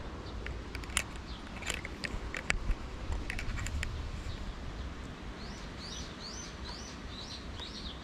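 A small songbird singing a run of about eight quick, high repeated notes in the second half. A few sharp clicks come earlier.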